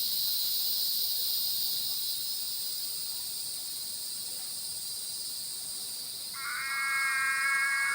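Dusk chorus of frogs and insects calling steadily, a dense high-pitched trilling wall of sound. Near the end a steady tone with several stacked pitches joins it.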